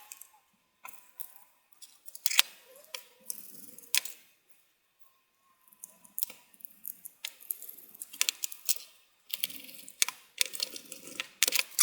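Irregular clicks and light knocks of small metal and plastic parts being handled as a graphics card's heatsink is seated back onto freshly applied thermal paste.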